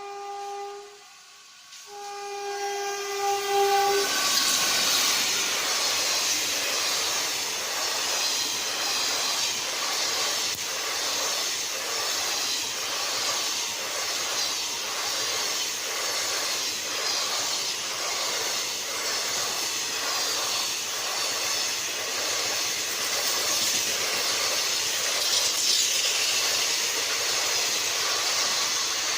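Indian Railways express train sounding its horn twice, then passing at speed: a loud rush with a steady clickety-clack of wheels over the rail joints that ends abruptly as the last coach clears.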